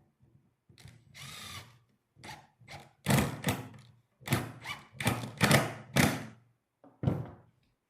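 Woodworking on a cedar bench: a brief steady whir like a power drill about a second in, then a run of short knocks and scrapes of wood and tools.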